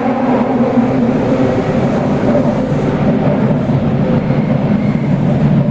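Running noise inside a Toei Oedo Line 12-600 series linear-motor subway car in a tunnel, slowing as it nears a station: a loud, steady rumble with low motor tones that slowly fall in pitch.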